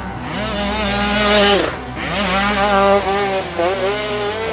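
2017 KTM 150 XCW's two-stroke single-cylinder engine being ridden hard, revving up and falling back off the throttle about three times.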